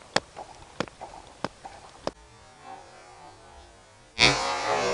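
A few sharp clicks about every half second, then about four seconds in a sudden loud rush of spraying water and air as a pressurised water rocket blasts off, fading over a second or so.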